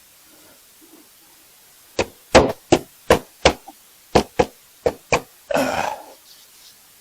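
A run of about nine sharp knocks, roughly three a second, then a short burst of rough noise about half a second long.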